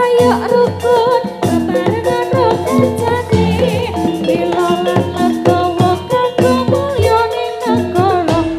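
Live Javanese jathilan music: a singer's wavering melody over a busy drum beat and pitched percussion, played loud through a sound system.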